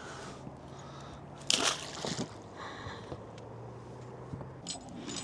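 A brief noisy splash-like burst about a second and a half in, then near the end a light metallic jingling starts up.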